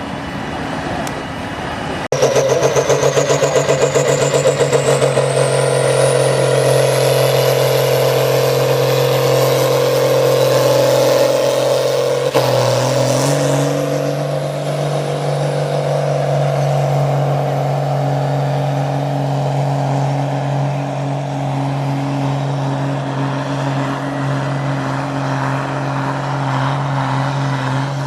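A tractor-pulling tractor's engine running hard under load. It comes in suddenly about two seconds in, with a high whine that climbs steadily in pitch over the next several seconds. The engine note changes around twelve seconds in and the engine keeps running loudly.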